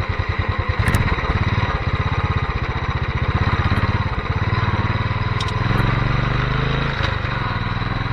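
Royal Enfield motorcycle engine running steadily, with an even, rapid beat of exhaust pulses.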